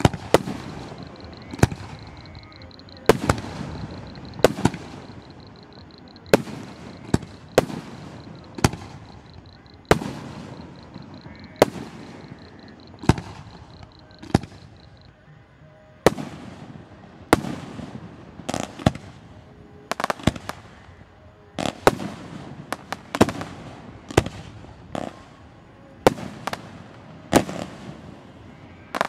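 Aerial firework shells bursting in a string of sharp bangs, each trailing off in echo. They come roughly one a second at first and faster and closer together in the second half.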